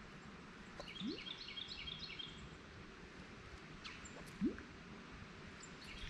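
Quiet river ambience with a small bird giving a quick series of high chirps about a second in. Two brief low rising sounds come in the middle, the second louder.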